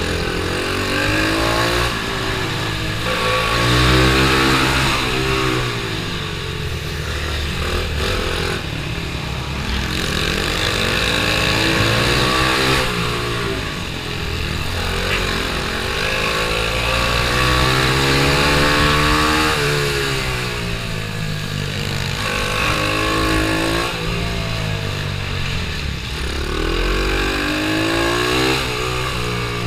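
Pit bike engine at racing speed, its pitch climbing as it accelerates and dropping as it slows, again and again.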